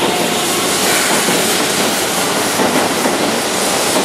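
Keihan 3000 series electric train pulling out of the station, its cars rolling past close by with a loud, steady rushing noise.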